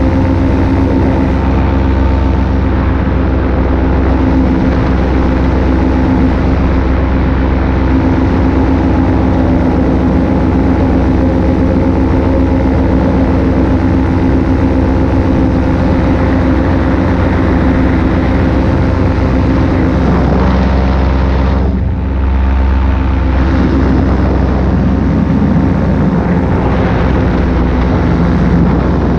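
Paramotor engine and propeller running steadily at cruise power in flight, a loud constant drone. About three quarters of the way through it briefly dips in pitch and level, then settles back.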